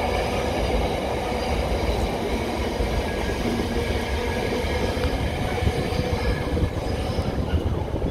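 Intermodal container freight train's wagons rolling past on the rails, a steady rumble and clatter as the end of the train goes by.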